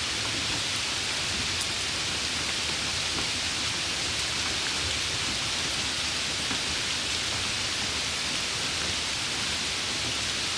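Steady rain falling, an even unbroken hiss strongest in the upper range with faint scattered drop ticks.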